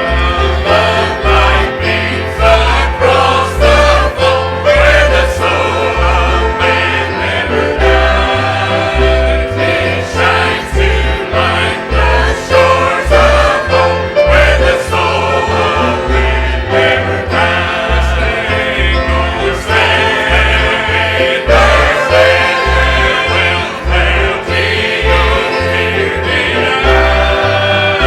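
Church choir singing a gospel hymn with instrumental accompaniment and a steady bass beat.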